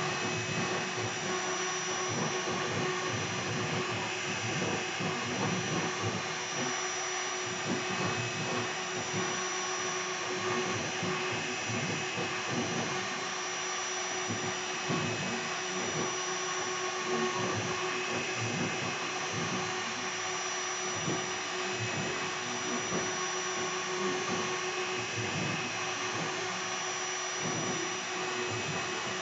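Air-cooled 2.2 kW CNC router spindle running steadily while carving wood, a constant whine over a rumble that flickers as the cut goes on.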